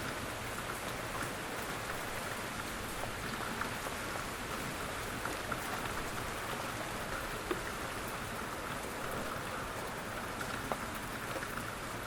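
Steady, gentle rain falling, an even hiss with scattered louder ticks of single drops hitting a surface.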